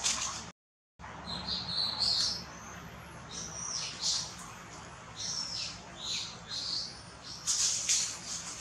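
Birds chirping and twittering: a run of short, high, quickly gliding chirps, several a second. Near the end there is a brief noisy burst.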